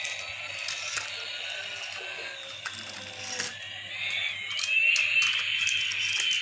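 Battery-powered toy airplane running, its electronic sound effect a high wavering tone that rises and grows louder about four seconds in, with scattered sharp clicks.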